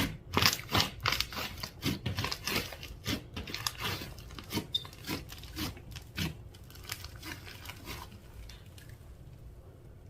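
Slime being kneaded and pressed by hand, giving a quick run of wet clicks, pops and crackles that thin out about eight seconds in.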